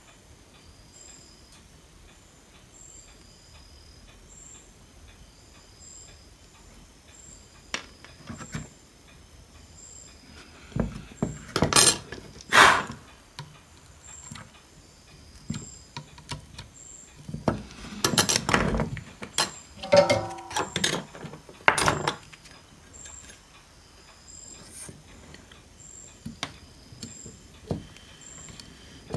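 Intermittent clicks, taps and scrapes of hand tools working on an electronic circuit board during a repair, with a short squeak about twenty seconds in.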